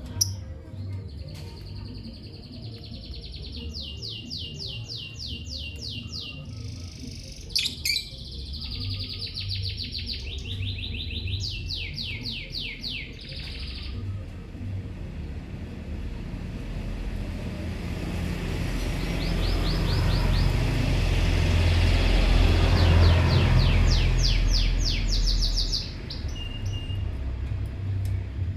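Lovebirds chirping in rapid, high-pitched trains of chirps, in three spells. In the second half a low rumble swells and fades, and the last spell of chirping sounds over it.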